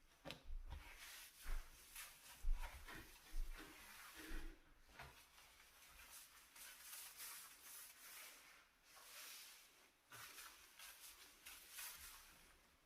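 Hand scrubbing on a dirty stovetop or oven surface: a run of rough rubbing strokes. A few low knocks fall in the first few seconds, the loudest about two and a half seconds in, and softer strokes follow.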